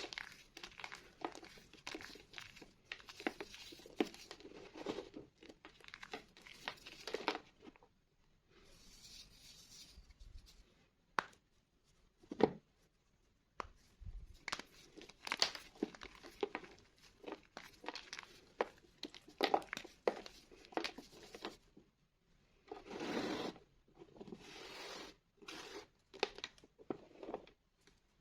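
School chalk being crushed and crumbled: runs of dry crunches and crackles, broken by a couple of short pauses.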